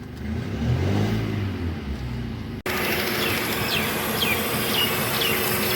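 Hyundai i10 Kappa four-cylinder petrol engine idling unevenly, misfiring on cylinders 2 and 3 because water has got into their spark-plug wells. About two and a half seconds in the sound cuts abruptly to a steady hiss with a faint hum and four short falling chirps.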